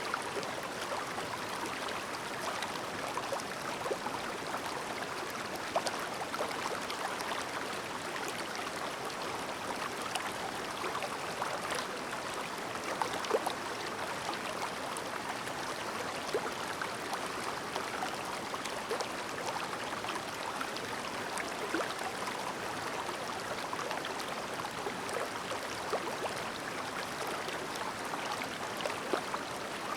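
Clear stream babbling over stones: a steady rushing gurgle, dotted with many small splashes and plinks.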